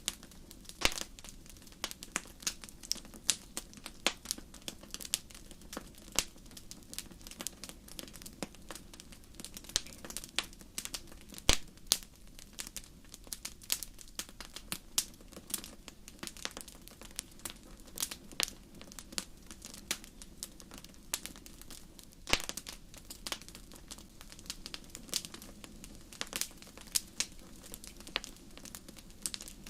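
Campfire crackling: frequent irregular pops and snaps, a few sharper than the rest, over a low steady hiss of burning wood.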